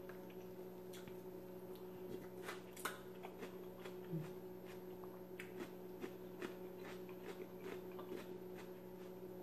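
A person chewing food with the mouth closed, giving faint, scattered crunchy clicks and wet mouth smacks, over a steady faint hum.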